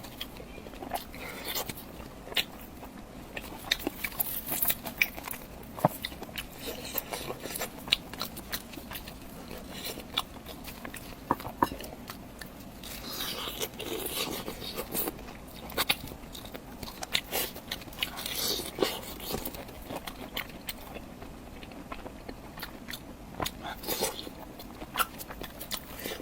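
Close-up eating sounds: biting and chewing with irregular crisp clicks and crunches, denser for a couple of seconds about halfway through and again near the end.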